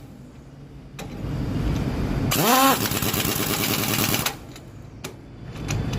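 Air impact wrench on truck wheel nuts. About two and a half seconds in, a burst spins up with a quickly rising whine, then hammers rapidly for about two seconds before stopping.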